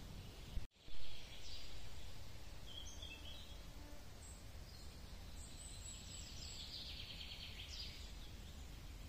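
Forest ambience with small birds singing: a few short high chirps about three seconds in and a longer, rapid high trill from about five to eight seconds, over a low steady rumble. A brief dropout and a loud thump just under a second in.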